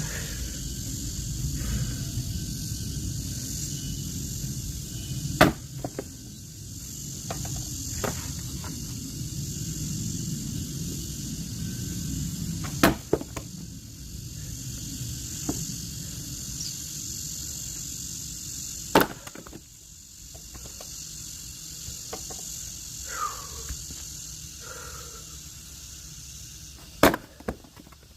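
Axe striking and splitting firewood logs: four sharp single cracks several seconds apart, over the steady chirring of insects.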